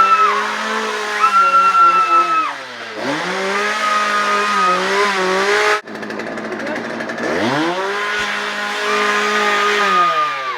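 Two-stroke chainsaw engine running at high revs. It drops to a low idle and revs back up twice, about three seconds in and again after seven seconds. A high, steady wail sits over it in several held stretches.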